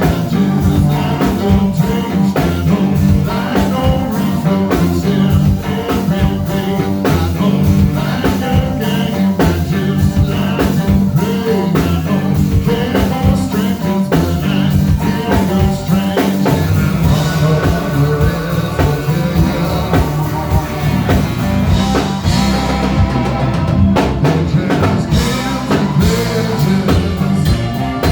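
Rock band playing, with electric guitar, bass and drum kit, in a blues-rock style.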